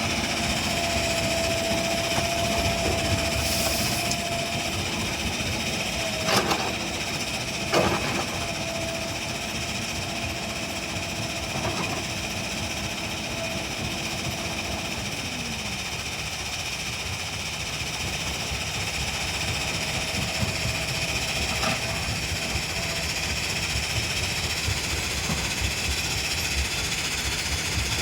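JCB 3DX Eco Max backhoe loader's diesel engine running, with a steady whine that drops away in a falling glide about halfway through. Two sharp clanks come about a quarter of the way in.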